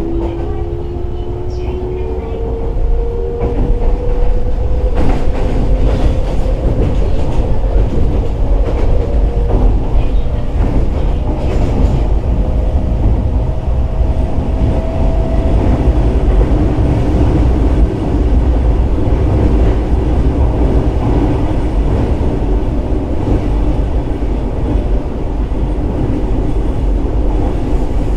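Fukuoka City Subway 1000N series electric train under way: the traction motors whine in a tone that rises steadily in pitch as the train accelerates, levelling off about halfway through, over a heavy rumble of wheels on rail with occasional clicks from the rail joints.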